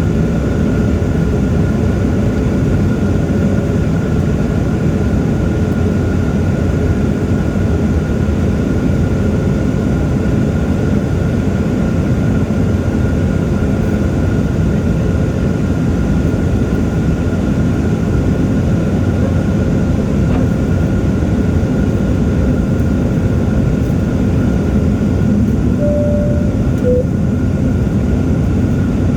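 Steady airliner cabin noise in flight: a constant low rumble of engines and airflow with a thin, steady high whine over it.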